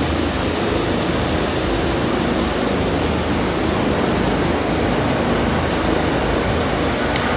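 Rushing water, steady and loud, from an alpine waterfall or glacial river, with a low rumble beneath it.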